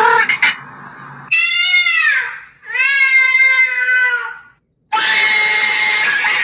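A domestic cat giving two long, drawn-out meows, the first falling in pitch at its end, the second held steady. A few clicks come before them, and a loud, noisy sound begins about five seconds in.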